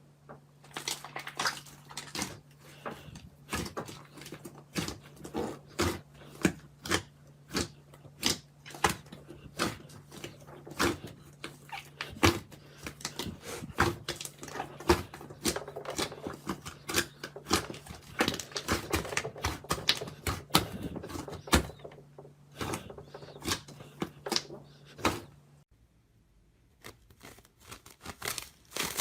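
Slime being squeezed and poked, making irregular clicks and pops several times a second, with a short pause near the end.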